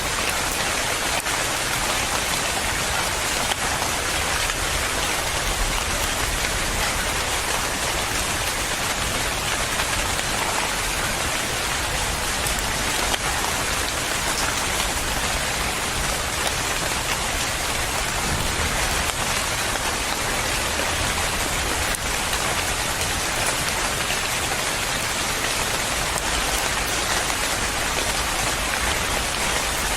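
Steady, even rain falling, with a faint low rumble underneath.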